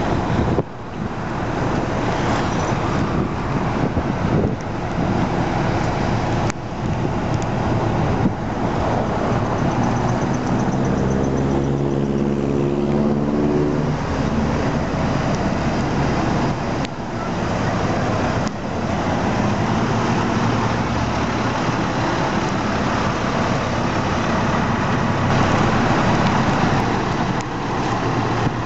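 Steady road traffic noise, with an engine's pitched note standing out for a few seconds midway.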